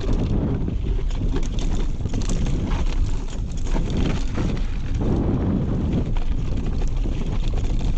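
Wind buffeting an action camera's microphone while riding a mountain bike downhill, with the bike's rattling and clattering over rough ground throughout.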